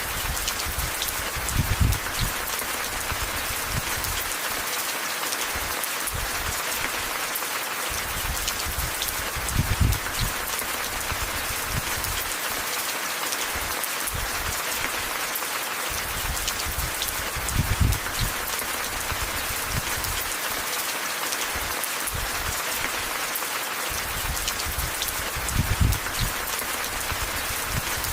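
Steady rain falling, an even hiss. A low rumble swells four times at even spacing, about every eight seconds.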